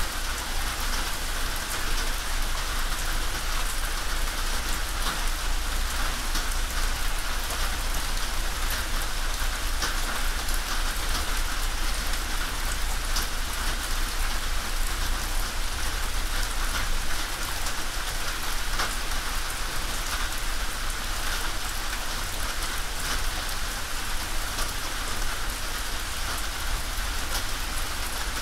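Steady rain drumming on a tin roof: a dense, even patter of drops with many single sharper drop ticks, over a steady low rumble.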